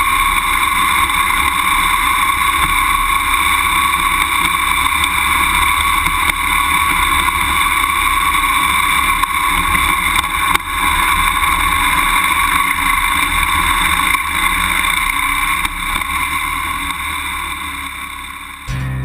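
BMW F800GS parallel-twin motorcycle engine running steadily while riding slowly over grass and gravel, picked up by a bike-mounted camera. It fades down near the end.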